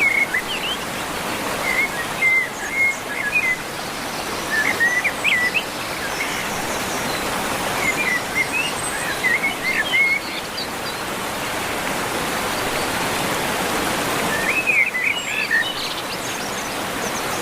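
Small birds chirping in short clusters of quick, high notes, several times with gaps of a few seconds, over a steady rushing background noise.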